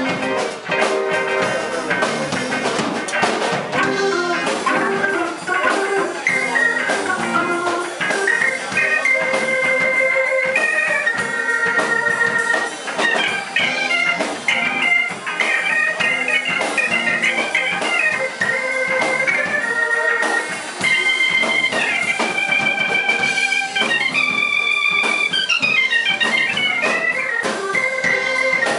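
Live rock band playing an instrumental break: an electric organ plays a lead line of held notes that step up and down, over drums.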